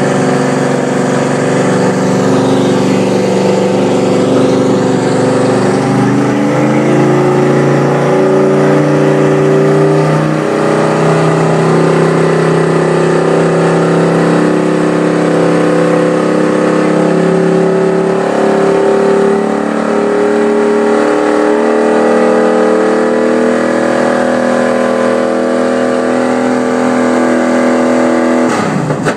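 NASCAR stock car's V8 engine held at raised revs, its pitch stepping up and down as the throttle is varied. Near the end the revs drop away and the engine falls back toward a lumpy, pulsing idle.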